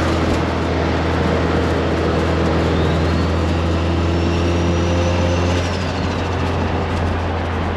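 Car engine and road noise heard from inside the cabin while cruising: a steady low drone with a faint rising whistle in the middle that cuts off about two-thirds of the way through, after which the sound eases slightly.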